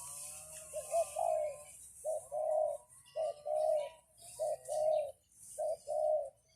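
A dove cooing: five short two-part coos repeated about once a second.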